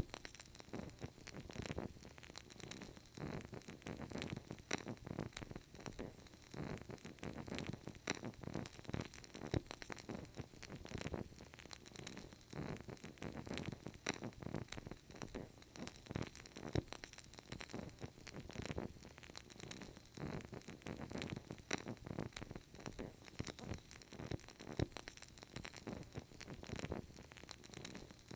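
Burning candle crackling: a steady stream of small, soft pops and ticks over a faint hiss, a few sharper than the rest.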